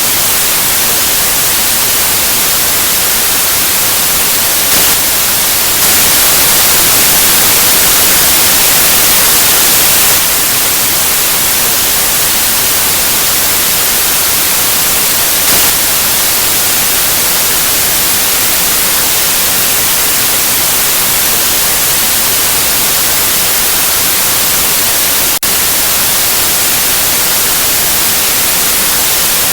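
Steady white-noise hiss, even and strongest in the treble, with a slightly louder stretch from about six to ten seconds in and a tiny momentary dip about twenty-five seconds in.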